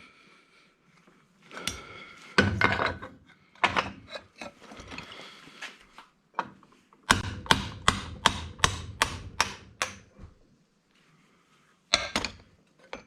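Hammer blows on the metal parts of an old electric angle grinder being broken down for scrap: a few scattered knocks and clinks, then a quick even run of about ten blows, roughly three a second, about seven seconds in, and a last couple of strikes near the end.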